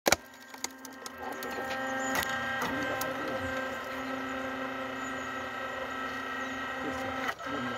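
Hydraulic firewood splitter's motor and pump running with a steady hum. There is a sharp click at the start and another about seven seconds in.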